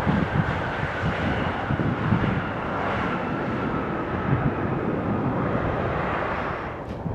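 Jet airliner's engines roaring as it passes, with a faint whine that falls slowly in pitch, and wind gusting on the microphone; the noise eases near the end.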